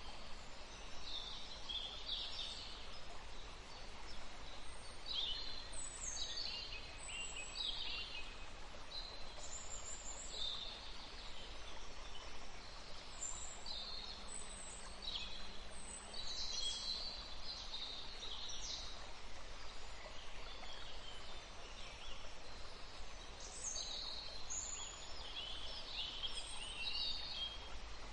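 Several forest birds chirping and calling in short, scattered phrases, over a steady low background rumble.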